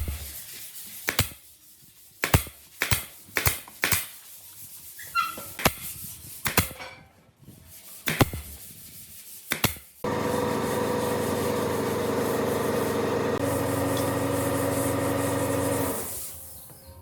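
A string of sharp knocks and taps, then an electric power tool runs steadily for about six seconds, its tone shifting slightly partway through, before it stops.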